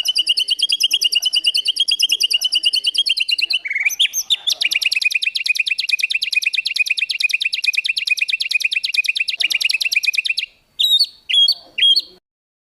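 Songbird singing: long, very fast, high trills of rapidly repeated notes, with a change of phrase about four seconds in, then three short downward-swooping calls near the end before it stops.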